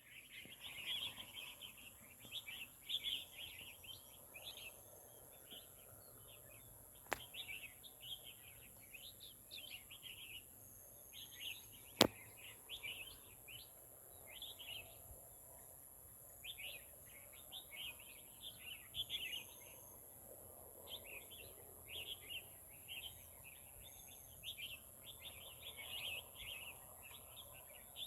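Small birds chirping in quick, busy bursts throughout, over a steady high-pitched hiss, with two sharp clicks.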